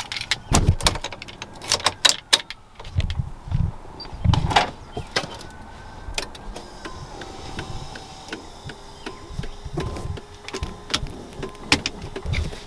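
Clicks and knocks of handling inside a pickup truck, then a faint whine of a small electric motor from about six seconds in.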